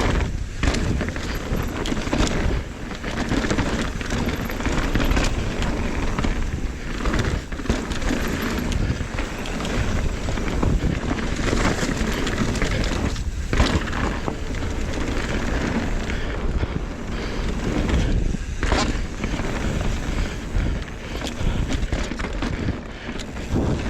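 Mountain bike riding down a dirt trail: steady wind buffeting on the microphone mixed with tyre noise and the bike rattling over the ground, dropping off briefly a few times.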